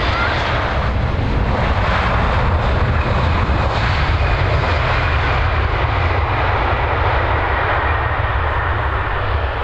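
Airbus A319-111 airliner's CFM56 turbofan engines arriving on approach: a steady, loud rush of jet noise over a deep rumble, with a faint high whine in the middle.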